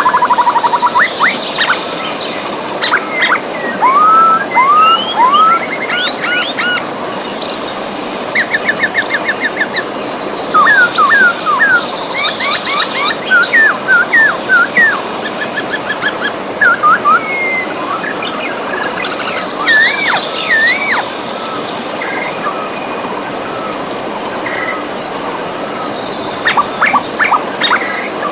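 Several birds singing and calling over the steady rush of a river: quick chirps, whistled notes that swoop up and down, and a rapid trill. The birdsong lulls for several seconds near the end, leaving only the water.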